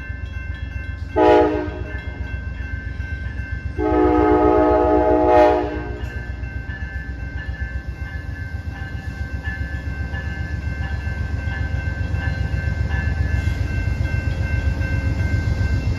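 Amtrak P42 diesel locomotive sounding its horn, a short blast followed by a longer one of about two seconds, as it rolls into the station. Under it runs the locomotive's steady low diesel rumble and a bell ringing rapidly and steadily.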